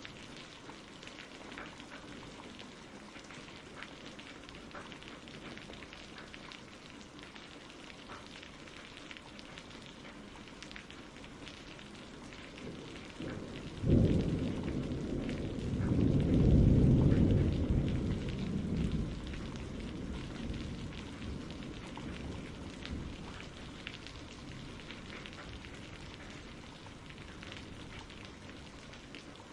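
Steady rain, with a sudden crack of thunder about halfway through followed by a low rumble that swells and then fades away over several seconds.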